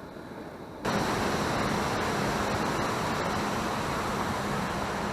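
Steady rushing of water spilling over a dam, starting suddenly about a second in, with a faint low hum beneath it.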